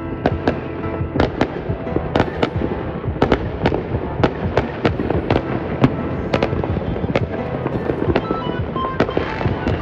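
Many fireworks going off together, a fast, uneven run of sharp bangs and cracks, about two to three a second, with no pause.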